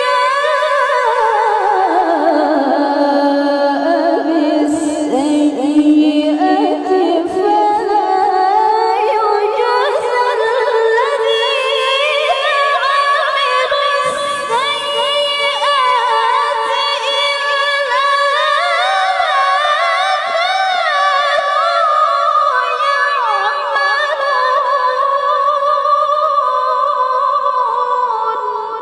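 A woman reciting the Qur'an in melodic tilawah style. It is one long, unbroken, ornamented phrase with rapid trills. The voice starts low and climbs step by step to a high, held pitch.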